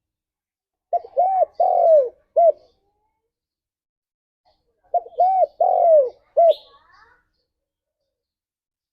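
Spotted dove cooing: two phrases about four seconds apart, each made of a short coo, a rising-and-falling coo, a long falling coo and a short closing coo.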